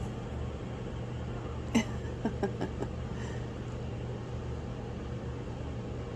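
Steady low mechanical hum throughout. About two seconds in comes a sharp click, then a handful of short squeaks over about a second.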